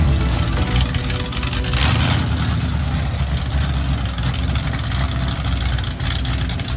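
Car engine running with a deep, steady exhaust note as a car drives out of the car show lot, with a brief louder rush of noise about two seconds in.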